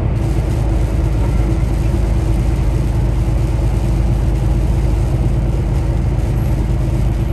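Semi truck's diesel engine and road noise droning steadily inside the cab while cruising at highway speed, with no engine brake on.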